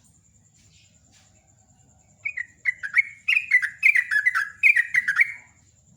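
A bulbul singing a fast, bubbling run of short chirps, each note dropping in pitch, about four a second, starting about two seconds in and stopping shortly before the end.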